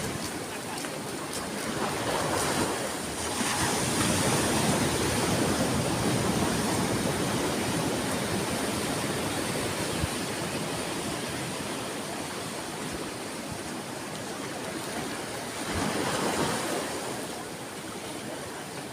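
Ocean waves breaking on a shore: a continuous wash of surf that swells louder about two seconds in and surges again near the end.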